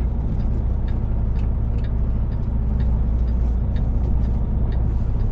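Semi truck's diesel engine running steadily at low revs, heard from inside the cab, with faint light clicks over it.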